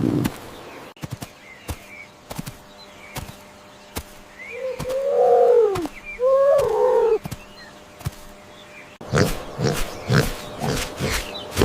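Two loud, drawn-out animal calls about halfway through, each rising and falling in pitch. From about three-quarters in, a pig grunts rapidly in short bursts, and faint bird chirps sound throughout.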